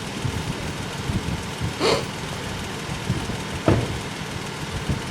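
An engine idling steadily, with a brief rustle about two seconds in and a sharp knock a little before four seconds.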